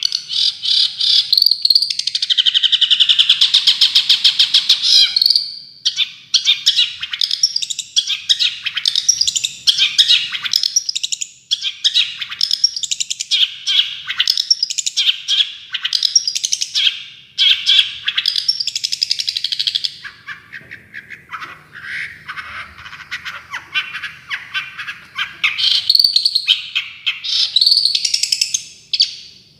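Songbird singing a fast run of rapid-fire chattering phrases and trills, the 'tembakan' style of song used as masteran to train cendet (long-tailed shrikes). A long buzzy trill comes about two seconds in, and the song turns quieter for a few seconds about two-thirds of the way through.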